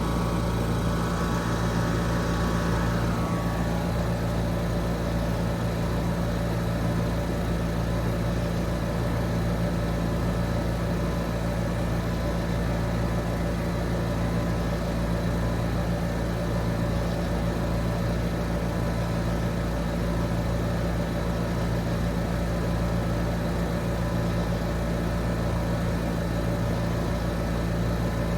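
Trane XR 14 heat pump outdoor units running steadily: compressor and condenser fan giving a constant low hum and an airy rush. A higher whine fades away in the first few seconds.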